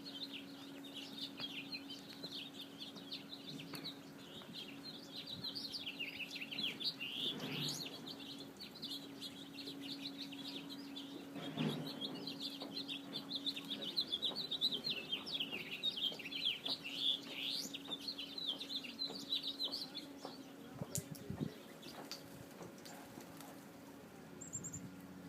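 A crowd of small birds chirping and chattering over one another, dense and continuous, thinning out after about twenty seconds. A steady low hum runs underneath.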